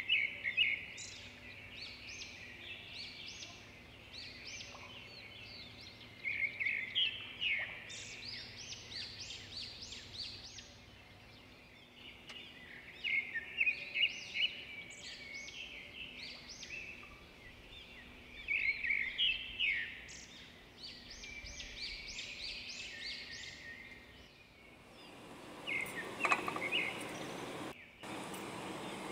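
A songbird singing short bouts of quick high chirps every five or six seconds, over a faint steady hum. In the last few seconds, bubbling and hissing from the stew boiling in the pot.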